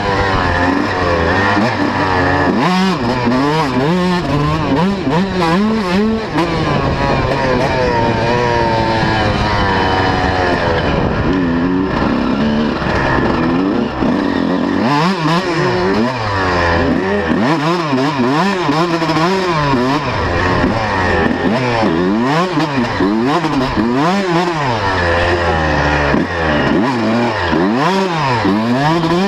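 125cc two-stroke motocross bike engine revving hard, its pitch climbing and dropping again and again as the rider works the throttle through the gears.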